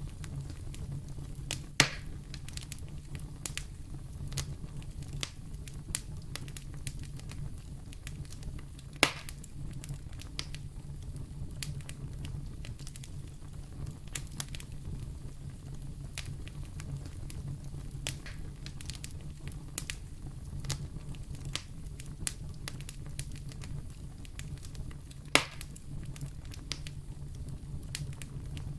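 Wood fire in a fireplace crackling: a steady low rumble of flames with scattered sharp crackles and three louder pops, about two seconds in, near nine seconds and about twenty-five seconds in.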